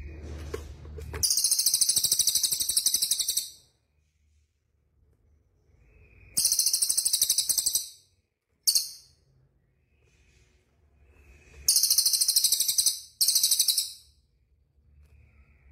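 Small songbird giving rapid, very high-pitched trills in five bursts of one to two seconds each, one of them very short, with a faint low hum in the gaps.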